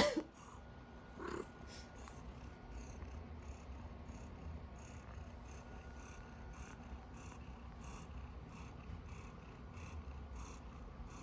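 Domestic cat purring close by: a faint, steady low rumble, with a brief higher sound about a second in.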